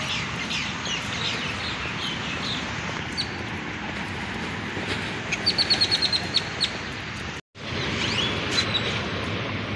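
Birds chirping and calling, with a quick run of about nine sharp high notes a little past the middle, over a steady background hiss. The sound drops out for a moment near the end.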